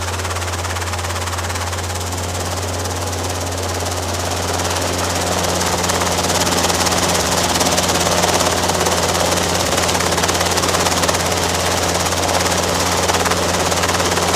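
Robinson R22 helicopter running: a steady, loud drone of rotors and carbureted piston engine, growing a little louder about five seconds in.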